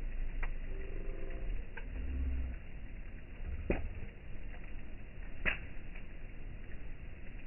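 Campfire burning, with four sharp pops of wood cracking at uneven intervals over a low rumble; the loudest pop comes a little past halfway.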